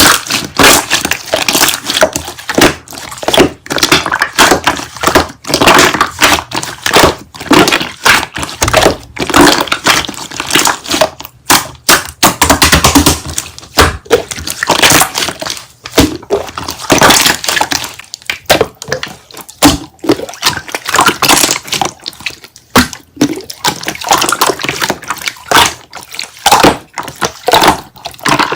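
Slime being squished and pressed by hand: a dense, irregular run of sticky clicks and pops.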